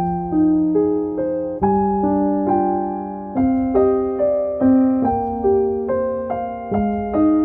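Background music: a gentle piano melody of notes struck about twice a second, each fading away, over sustained bass notes.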